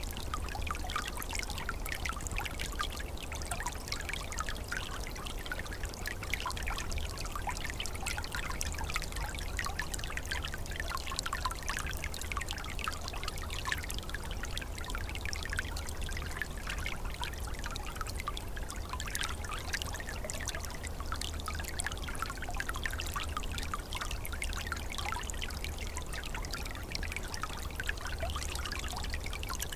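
Small forest stream in winter flowing steadily, water trickling and gurgling over its bed in a continuous, even babble with a low rumble underneath.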